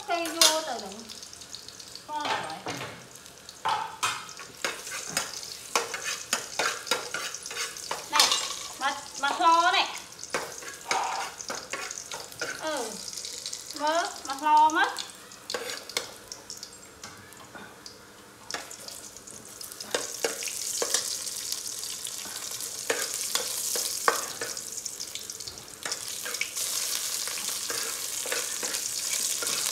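Food frying and sizzling in a steel pot on a portable gas stove, with a metal ladle clinking and scraping against the pot; the sizzle grows into a steady hiss in the second half. A few short gliding pitched calls sound over it in the first half.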